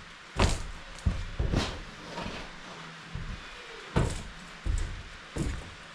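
A series of irregular knocks and thuds, about six over a few seconds, the loudest about half a second in.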